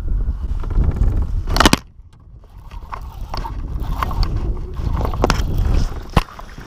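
Knocks, clicks and scrapes of handling aboard a kayak while a just-caught fish is dealt with, over a low wind rumble on the microphone. The loudest knock comes just under two seconds in, and the rumble drops away right after it; a few more sharp knocks follow.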